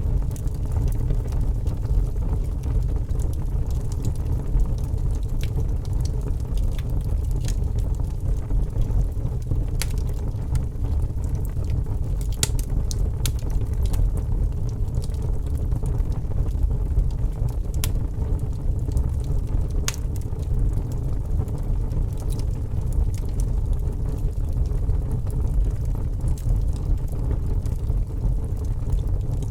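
Wood fire crackling in a fireplace, with sparse sharp pops and snaps over a steady low rumble.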